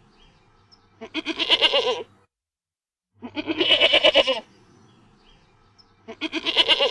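Goat bleating: three wavering, quavering calls, each about a second long, with short gaps between them.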